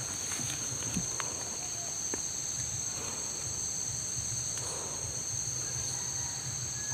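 Steady high-pitched insect chorus droning in several layered tones, over a low rumble, with a few faint clicks and rustles.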